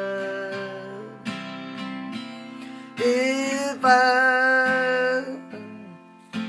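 A man singing a slow ballad over a strummed acoustic guitar: a long held note fades out about a second in, guitar strums fill the gap, and a second long note slides up and is held around the middle.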